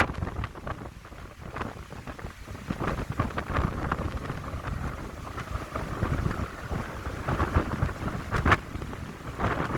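Wind gusting through a seaside pine grove, rising and falling, with wind buffeting the microphone in a low rumble.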